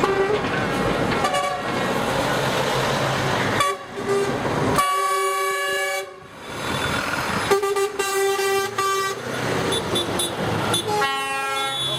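Horns of trucks in a passing convoy sounding in several long blasts of a second or two each, over the steady noise of the trucks' engines and tyres.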